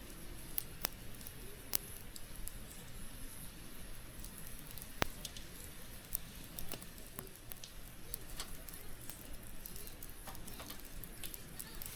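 Wood campfire crackling: irregular sharp pops and snaps over a low hiss, with one louder pop about five seconds in.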